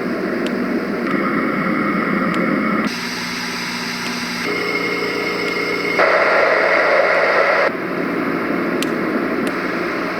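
A white noise sound machine's speaker playing its surf-category nature sounds, switching abruptly to a different steady rushing noise every one to two seconds as the sounds are stepped through; the loudest one comes about six seconds in.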